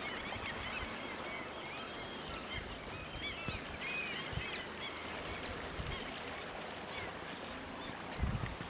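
Birds calling: many short chirps and whistles overlapping, over a steady outdoor background hiss, with a few low thumps near the end.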